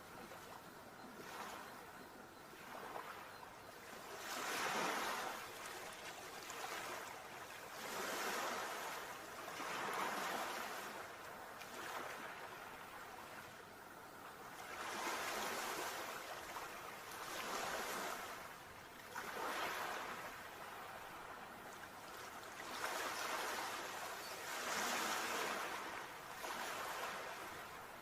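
Sea waves washing in, a rushing hiss that swells and ebbs every few seconds.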